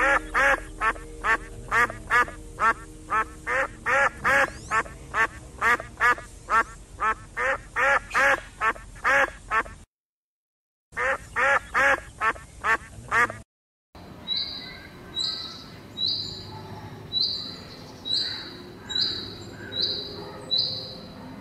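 Duck quacking in a rapid run, about three quacks a second, broken by two short dead silences. Then, from about two-thirds of the way in, a different bird gives a short high call over and over, a little faster than once a second.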